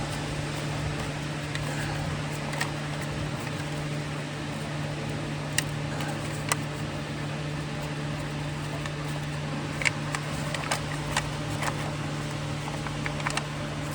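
Steady low hum of shop background noise, with scattered light clicks and paper rustles as a sheet of paper is pressed and rubbed against an engine block's mounting points to trace the bolt holes. The clicks come a little more often near the end.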